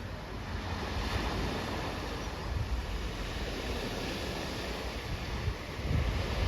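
Sea surf washing on a beach, a steady rush, with wind gusting over the microphone.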